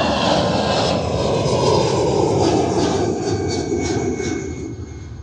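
Jet airliner taking off, its engine noise loud with a slowly falling pitch, fading away over the last second or two.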